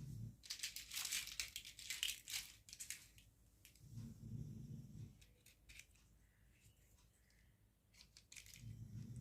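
Plastic packaging crinkling and tearing for the first few seconds as a toy is unwrapped, then small clicks of plastic parts being handled, with a low dull rumble twice.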